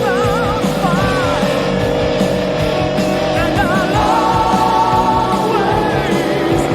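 Rock song with a singer's wavering, vibrato-laden voice over sustained guitar notes and a steady drum beat.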